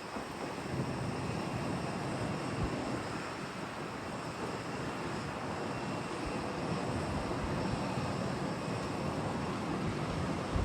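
Jet airliner engine noise, a steady rushing sound that slowly grows louder, mixed with wind buffeting the microphone.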